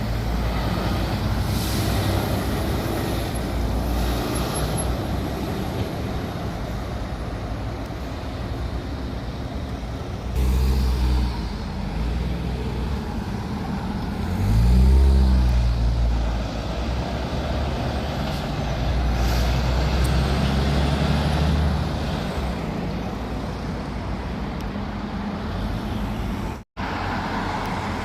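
Heavy diesel trucks passing on a road, with engine drone and tyre noise and a few short air-brake hisses. The loudest truck goes by about halfway through, its engine pitch rising and then falling. The sound drops out for an instant near the end.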